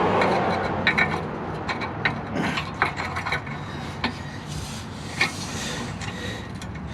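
Metal hardware being handled and fitted by hand: scattered sharp clicks and scraping as a spring-loaded exhaust bolt and its spring are worked into place, over a steady low hum.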